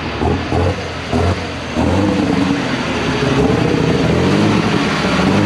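Superstock International pulling tractor's turbocharged engine running hard at full power during a pull, uneven for the first couple of seconds, then settling into a steady high-revving drone.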